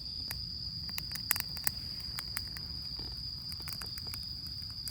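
Campfire of damp wood burning, crackling with irregular sharp pops and snaps, over a steady high-pitched insect trill.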